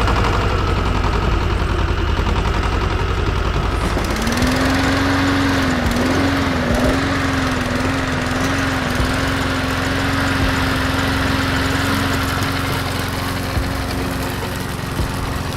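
A small motor running steadily, with a steady whine that joins in about four seconds in and wavers briefly before settling.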